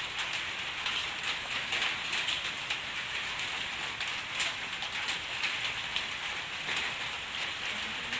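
Steady rain falling, with many sharp hits of individual drops close by.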